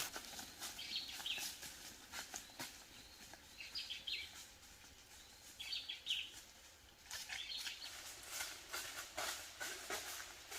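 Faint, short bird chirps every second or two, with light ticks and rustles between them.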